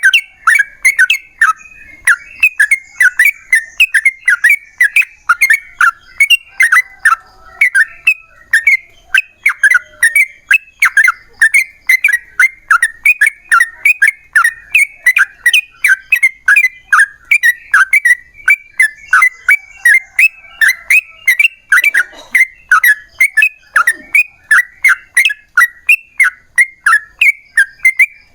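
Yellow-vented bulbul (trucukan) singing a long, unbroken run of short bubbly whistled notes, about three a second, in the rapid extended song that keepers call "ropel panjang".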